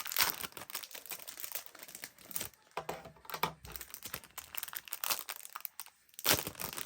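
Packaging being handled and unwrapped: irregular crinkling and crackling, with a few louder rustles.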